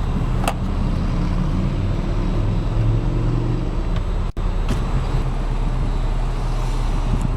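2013 Audi S4's supercharged 3.0-litre V6 engine running steadily, its pitch rising a little around three seconds in. The sound breaks off for an instant just after four seconds and then carries on.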